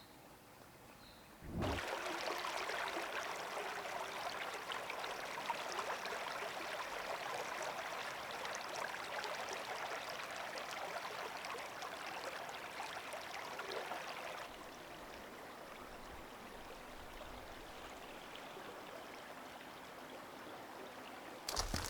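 Water of a forest stream running steadily. It starts suddenly about a second and a half in and drops to a quieter level about two-thirds of the way through.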